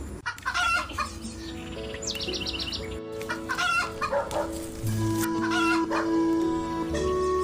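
Chickens calling in several short bursts, with a quick run of high repeated notes about two seconds in, over background music with long held notes.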